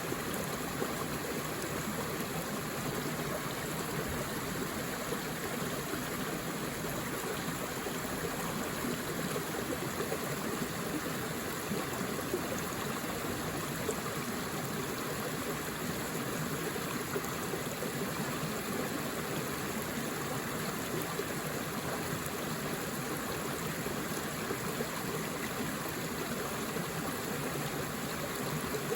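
Forest river or stream flowing over rocks: a steady rushing of water with no change in level.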